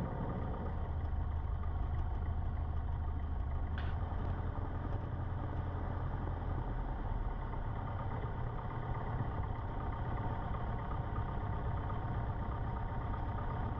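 Cessna 150's Continental O-200 four-cylinder engine idling, heard from inside the cockpit as a steady low drone. A single short click about four seconds in.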